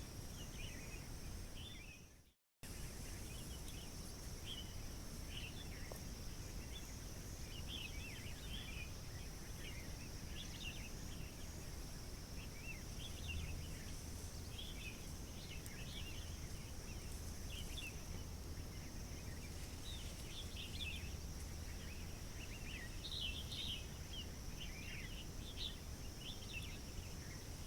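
Forest ambience: many small birds chirping on and off, over a steady high-pitched hum and a low rumble. The sound drops out completely for a moment about two seconds in.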